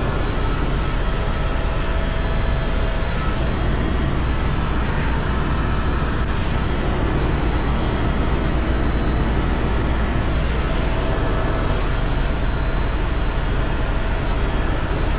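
Tour helicopter in flight: steady rotor and engine noise with a deep rumble and a faint steady whine.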